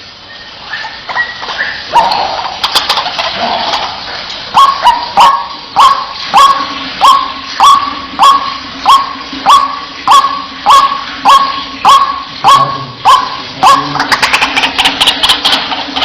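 White-breasted waterhen (ruak-ruak) calling: a run of loud, evenly spaced 'wak' notes, nearly two a second, after a few looser calls at the start, breaking into a faster jumble of calls near the end.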